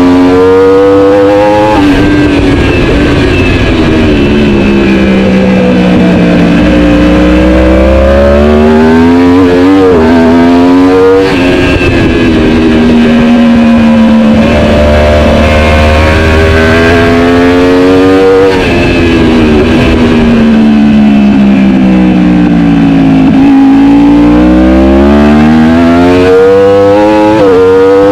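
Superbike engine at racing speed. Its note climbs through the revs and drops back again and again, with a quick flurry of throttle blips about ten seconds in and again near the end.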